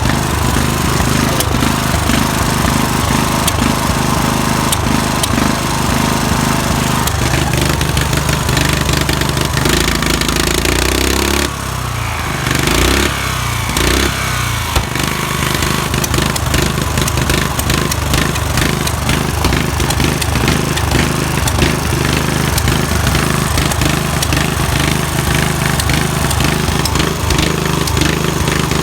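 Murray lawn tractor engine running steadily. About ten seconds in it drops to idle, then revs back up and settles again. There are a couple of brief sharp pops, small backfires on idling down.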